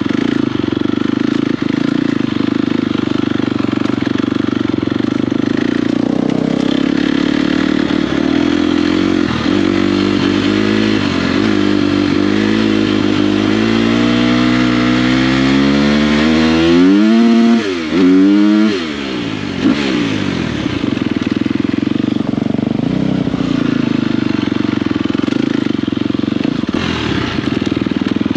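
Dirt bike engine running under way, its pitch climbing steadily as it accelerates about halfway through. It then revs sharply up and down a couple of times, the loudest moment, drops off briefly, and settles back to a steady run.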